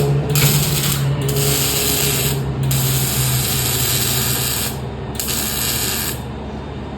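Pneumatic air tool, such as an air ratchet, run in four hissing bursts of about one to two seconds each, the third the longest, with a low steady hum beneath that fades out partway through.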